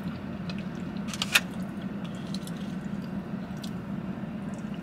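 Close-up eating sounds: wet chewing and mouth clicks of a bite of creamy pasta, with a few light clicks of a fork in an aluminium foil tray, the sharpest about a second in. A steady low hum runs underneath.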